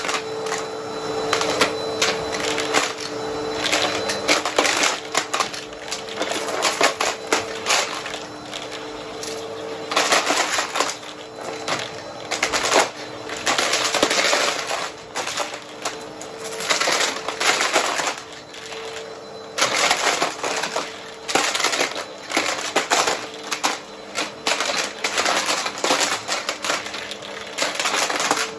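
Upright vacuum cleaner running with a steady motor hum while sucking up coins that clatter and rattle through it in irregular bursts.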